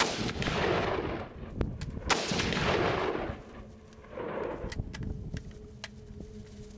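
Two sharp blasts about two seconds apart, each rolling away in a long echo, then a fainter boom about four seconds in: rifle fire at a 2 lb Tannerite binary exploding target set in a washing machine.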